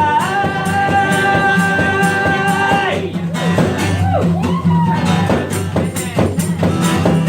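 Live blues-rock band playing an instrumental passage: a long held note for about three seconds, then notes bending up and down, over a steady bass line and a regular drum and tambourine beat.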